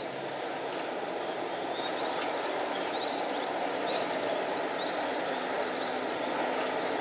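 Freight train approaching in the distance: a steady rumble that slowly grows louder, with many short high chirps repeating over it.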